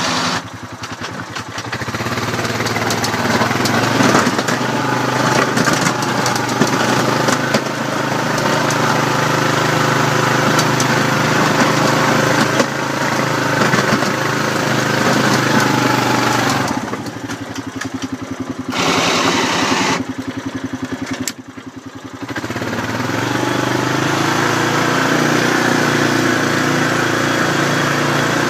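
ATV engine running under throttle while pushing snow with a plow blade. It eases off twice for a moment about two thirds of the way through, then runs steadily again.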